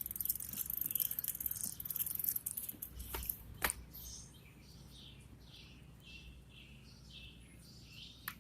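A songbird calling with a run of short, falling chirps, about two a second, through the second half. Before it there is a steady hiss, with two sharp clicks about three seconds in.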